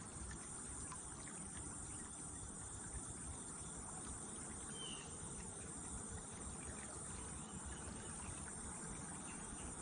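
Faint outdoor riverside ambience: a steady hiss with insects chirring, and one short chirp about five seconds in.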